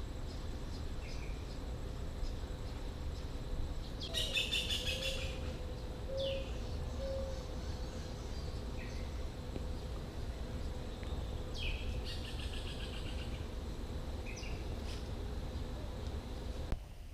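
Birds calling: two rapid trills of repeated high notes, about four seconds in and again near twelve seconds, with short single chirps between them, over a steady low rumble.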